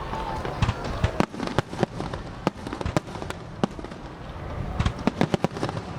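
Aerial fireworks display: sharp cracks and bangs at irregular intervals over a steady low rumble, coming thick and fast near the end.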